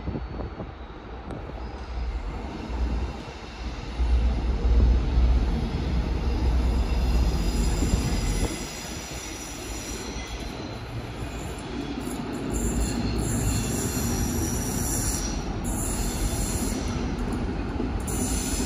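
A train running past, with a deep, heavy rumble strongest in the first half, then high-pitched wheel squeal in several tones, flickering on and off from about ten seconds in.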